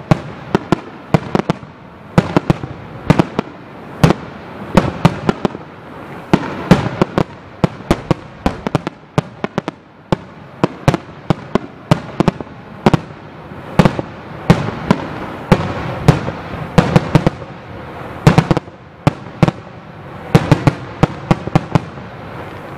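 Aerial firework shells bursting in rapid succession: loud sharp bangs, several a second, over a continuous rumble of echoing reports.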